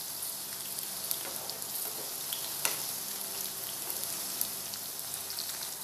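Okra pieces frying in hot mustard oil in a kadai over medium-high flame: a steady sizzle full of small crackles, with a few sharper pops, as a wooden spatula stirs them.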